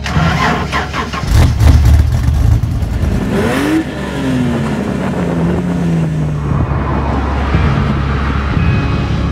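Ford Falcon 4.0-litre straight-six engine in a BMW E21 cranking and firing up, then running. About three and a half seconds in it is revved once, and the pitch falls back over the next few seconds to a steady run.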